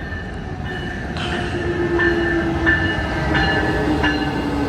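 Amtrak Capitol Corridor train led by a Siemens Charger diesel-electric locomotive rolling into the station, growing louder, with a steady whine and wheels clicking over rail joints about once or twice a second.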